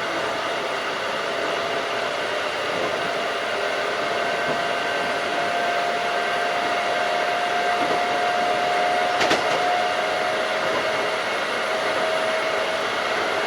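Keikyu 1500-series field-chopper electric train running at steady speed: an even rush of running noise with a faint held whine, and a single sharp click about nine seconds in.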